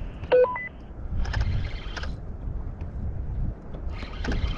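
A short electronic beep, a few quick stepped tones, about half a second in, over steady wind rumble on the microphone. Two spells of hissing noise follow, about a second in and again near the end.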